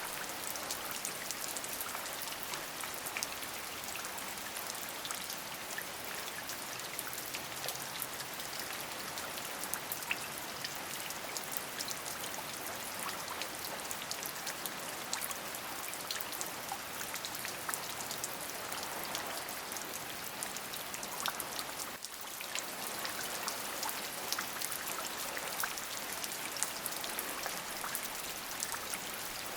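Steady rain: an even hiss of rainfall with many individual drops ticking through it, and a brief dip in level about 22 seconds in.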